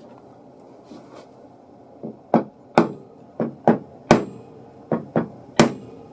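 A series of about nine sharp hammer blows, some in quick pairs, each ringing briefly, starting about two seconds in.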